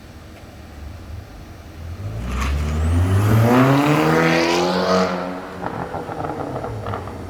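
Audi A6 Hybrid's engine revving up, its pitch climbing for about three seconds and then falling back as it settles, with a thin high whine rising at the start of the rev.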